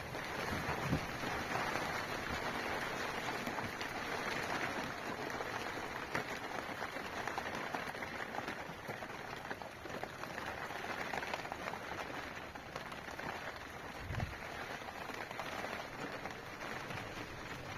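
Steady rain falling, a continuous hiss dotted with fine drop ticks, with one dull low thump about fourteen seconds in.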